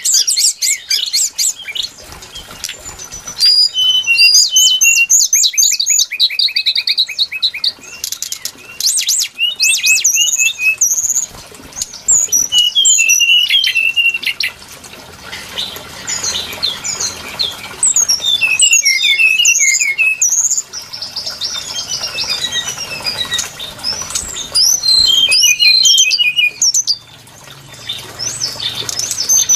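Brown-chested jungle flycatcher song: quick, varied high whistled notes and chattering trills in phrases a few seconds long, with short pauses between them.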